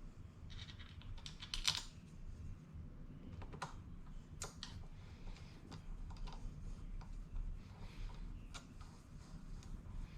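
Irregular clicks and taps of tools and parts being handled while a scooter tire is worked onto its wheel rim, the loudest cluster about two seconds in.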